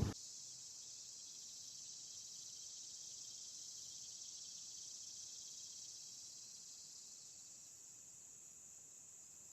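Steady high-pitched chorus of insects in the trees, fading slightly after about six seconds. Wind noise on the microphone cuts off abruptly just as it begins.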